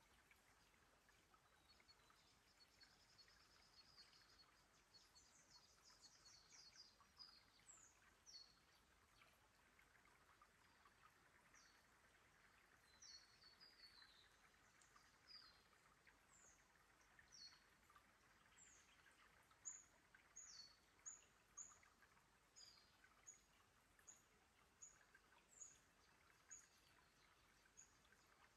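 Faint bird calls over a low background hiss. There are scattered short high chirps and a brief trill a few seconds in, and from about two-thirds of the way through a bird repeats short downward-sliding notes, one or two a second.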